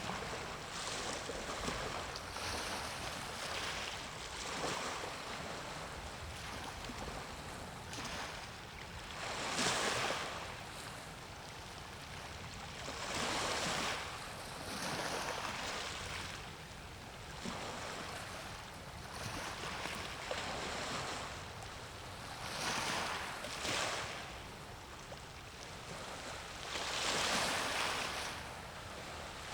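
Waves washing in, a hissing surge that swells and falls away every few seconds, over a low wind rumble on the microphone.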